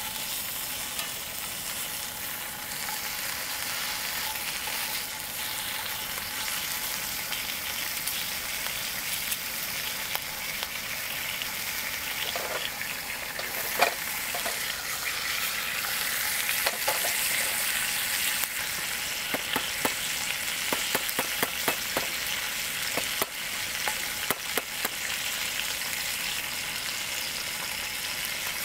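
Food sizzling as it fries in a pan: a steady hiss with crackling pops that grow thicker from about halfway through.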